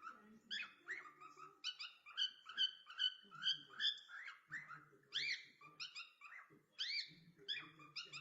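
Cockatiel chirping continuously in a rapid run of short, arching chirps, about three or four a second.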